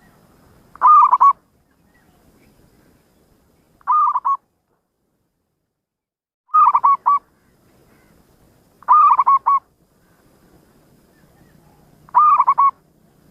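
Zebra dove (perkutut) cooing: five short phrases of quick, bubbling coos, each about half a second long, repeated roughly every three seconds.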